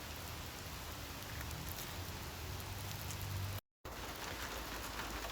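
Steady hiss of a summer rain shower falling. The sound cuts out for a split second about three and a half seconds in.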